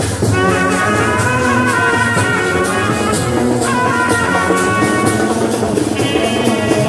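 Band music with drums on a steady beat and long held melody notes over it, the melody shifting to new notes about halfway through.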